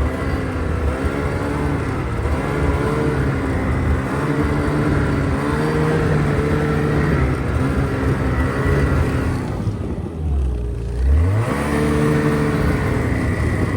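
Snowmobile engine running under way, its revs rising and falling. It eases off about ten seconds in, then revs back up.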